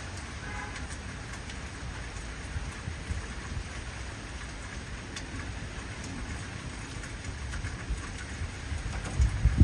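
Heavy rain falling steadily, with scattered sharper drop ticks, and a low thunder rumble swelling near the end.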